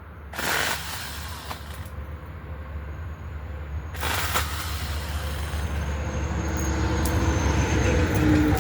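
A motor vehicle passing on the road, its low rumble building to a peak near the end and then easing off. Two brief rushing noises come about half a second and about four seconds in.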